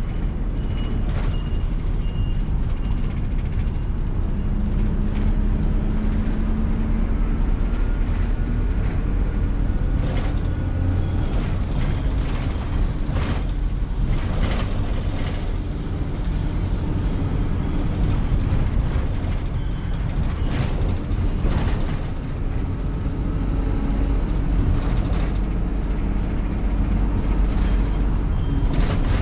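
City bus under way, heard from on board: a steady low drive rumble with a faint hum that shifts slightly in pitch, and scattered short rattles and clicks from the body.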